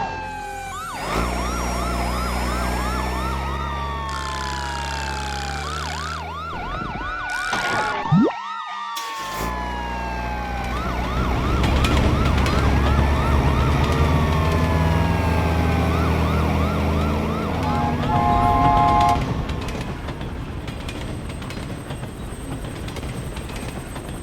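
Cartoon siren sound effects: rapid rising-and-falling wails and long falling whoops over a low rumbling soundtrack. The sound cuts out briefly about eight seconds in, and the sirens fade out near the end.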